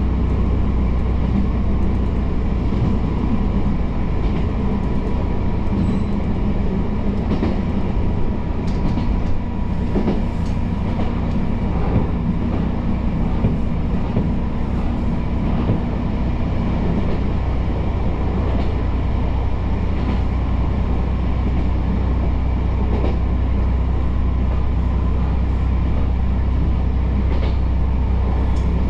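A Kyoto Tango Railway diesel railcar running along the track, heard from on board: a steady engine and rolling drone with a faint whine, broken by occasional clicks of the wheels over the rails.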